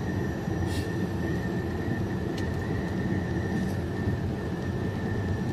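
Steady engine and road rumble heard inside a truck's cab while it drives, with a thin steady high tone running through it.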